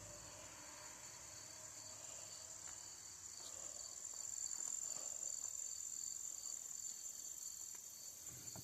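Insects chirping steadily in the background, a continuous high buzz with an evenly pulsing chirp beneath it. A few faint knocks and rustles come about halfway through.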